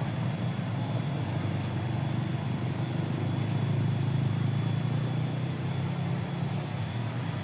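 A small boat's motor running steadily, a low drone that swells slightly midway.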